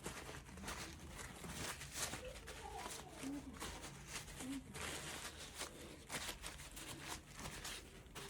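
Faint, irregular rubbing and scraping strokes as small VW T5 engine parts are cleaned by hand.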